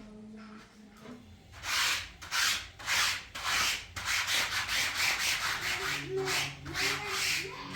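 Repeated back-and-forth rubbing or scraping strokes, about two a second, starting less than two seconds in, as of hand sanding or scraping a surface.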